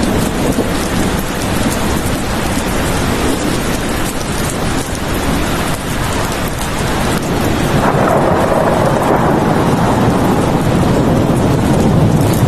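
Steady rain falling, with a low rumble of thunder that swells about two-thirds of the way through.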